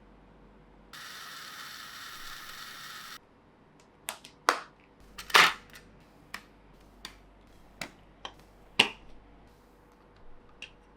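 Plarail plastic toy train parts clicking and knocking together as they are handled: about ten sharp clicks over some five seconds. Before them comes a steady hiss of about two seconds that starts and stops abruptly.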